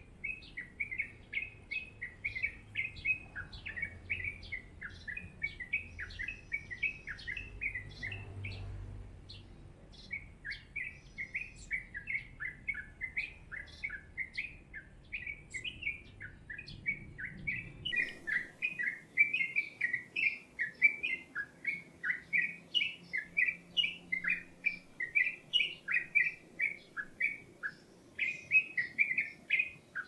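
Small songbird chirping in a fast, continuous run of short, high notes, several a second, with a brief pause about nine seconds in.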